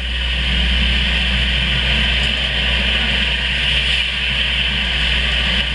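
Heavy rain pouring down: a loud, steady hiss of the downpour.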